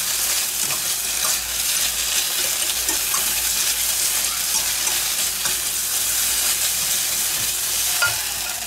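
Onions and tomato paste sizzling in hot oil in a small stainless steel pot while being stirred, with faint scrapes of the utensil against the pot. The sizzle steadies throughout and eases a little near the end.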